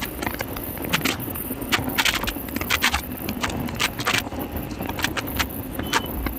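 Motorcycle riding noise on a highway: a steady rumble and hiss, broken throughout by irregular sharp clicks and rattles.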